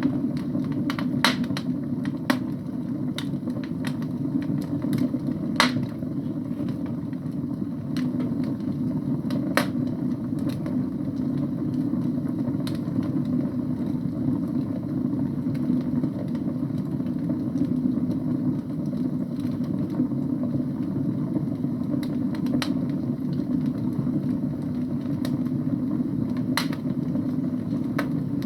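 Wood fire burning in a fireplace: a steady low rumble of flames with scattered, irregular sharp crackles and pops from the logs.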